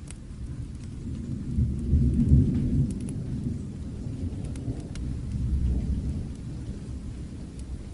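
Distant thunder rumbling, swelling loudest about two seconds in and again more softly around five to six seconds, over steady rain. A few sharp crackles from a fireplace pop on top.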